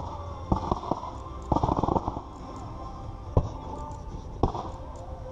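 Fireworks going off as a string of sharp bangs: a few in the first second, a rapid cluster of crackling reports about a second and a half in, then two single bangs a second apart in the second half.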